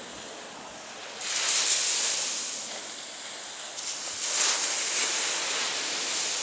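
Ocean surf washing in, a hissing rush that swells about a second in and again about four seconds in, then slowly fades.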